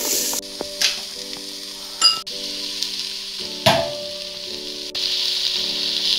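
Chopped vegetables sizzling in ghee and spices in a hot pot, with a few sharp knocks of the spatula against the pan as they are stirred. The sizzle drops back about half a second in and comes up louder again near the end.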